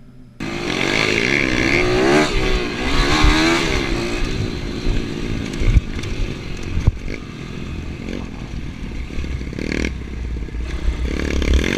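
Motorcycle engine running and revving, its pitch rising and falling, starting abruptly about half a second in, with a couple of sharp knocks around the middle.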